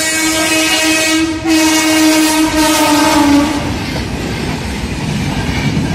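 Electric locomotive's horn sounding one long blast that sags slightly in pitch and stops about three and a half seconds in as the locomotive passes. It gives way to the rumble and clickety-clack of the coaches rolling through the level crossing.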